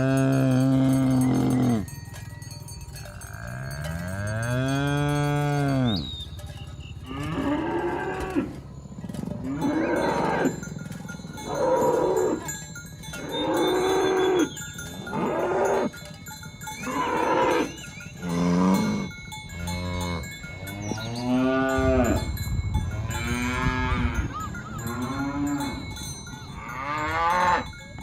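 Cattle mooing over and over, a string of about a dozen long calls of differing pitch from several cows calling to one another. A long, low moo opens it, and the calls then come every couple of seconds.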